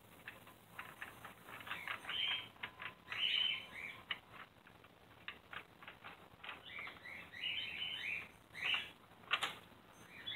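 A small bird chirping and twittering in quick clusters of short high chirps and clicks, with a sharper click about nine seconds in.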